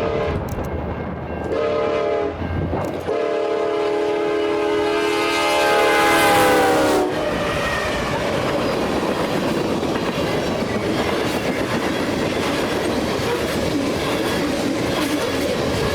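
Diesel freight locomotive's multi-chime air horn sounding a short blast and then a long one whose pitch drops as the lead engine passes, the horn cutting off about seven seconds in. The rumble and wheel clatter of the passing freight train follows.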